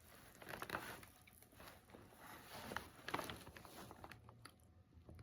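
Faint rustling and a few light clicks and taps of takeout food wrapping being handled, with short quiet stretches between.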